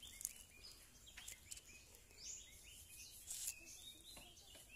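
Faint birdsong: many short chirps repeating throughout, with a few brief clicks or rustles among them.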